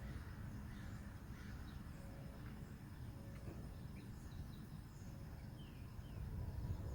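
Faint outdoor background noise with a steady low rumble and a few brief, faint bird-like chirps.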